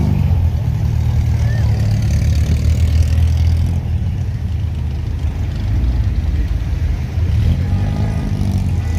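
Car engines running as cars drive out past at low speed, a deep steady rumble; near the end one engine's pitch rises and falls as it goes by.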